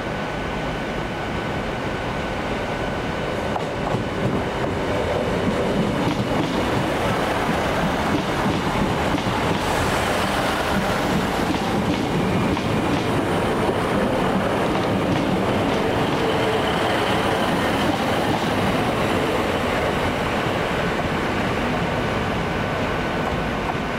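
Passenger train moving along the track, the sound of its wheels and running gear growing louder about four seconds in and staying loud.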